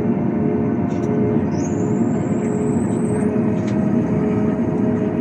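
Steady loud running noise of a Boeing 737-800 jet airliner during pushback by a tug. A thin high whine climbs over about two seconds, then holds until near the end.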